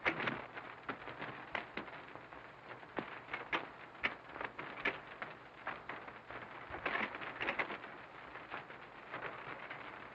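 Faint irregular clicks and crackle over a low hiss: surface noise of an early sound-film soundtrack.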